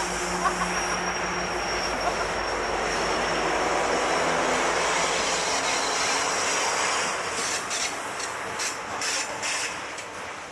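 Freight train passing on a mountain grade: the steady hum of the diesel locomotives fades in the first couple of seconds, then the freight cars roll by with a rumble and a run of wheel clicks in the second half, growing quieter toward the end.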